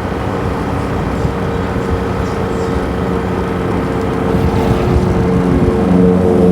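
Motorbike engine running at riding speed, a steady drone over wind and road noise, growing louder toward the end.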